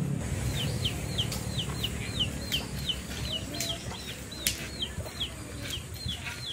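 A bird chirping over and over: a steady run of short, high, falling chirps, about three a second.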